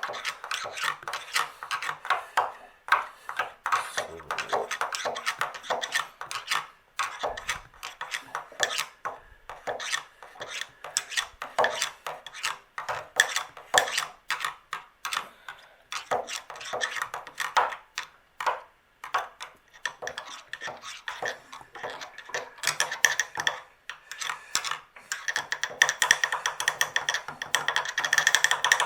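A hand tool scraping and scratching inside a water heater drain valve in quick irregular strokes with small clicks, digging out built-up sediment and residue; the scraping gets denser and steadier near the end.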